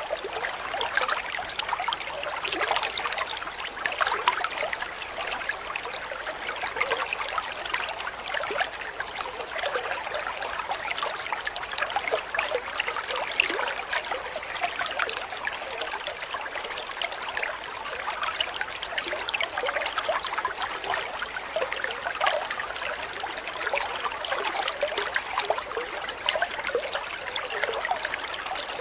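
Water trickling and babbling steadily, a continuous patter of small splashes like a small stream, laid under a bird-training track.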